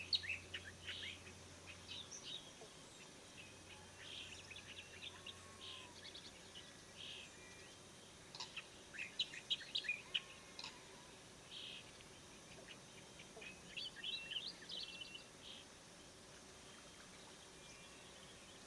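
Starlings chirping as a chick is fed: short, high chirps in bursts, with quieter spells of faint background hiss between them.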